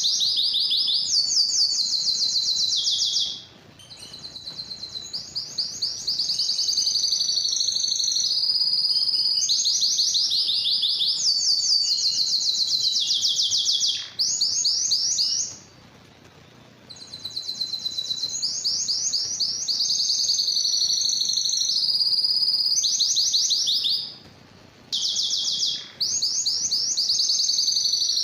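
Domestic canary singing a long song of rapid trills, each phrase a fast run of one repeated high note before switching to the next. The song breaks off briefly three times: about 3 to 6 s in, 15 to 17 s in, and 24 to 26 s in.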